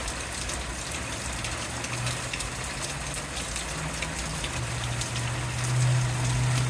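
Heavy rain pouring down steadily. A low steady hum comes up about four and a half seconds in and grows a little louder.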